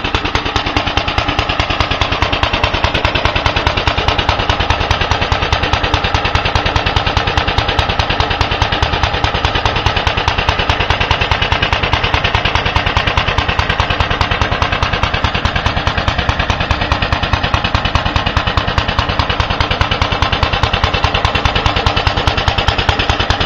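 Briggs & Stratton FI single-cylinder engine on a 1930 Locke reel mower running steadily at an even speed, its firing strokes coming fast and regular. The engine is running well.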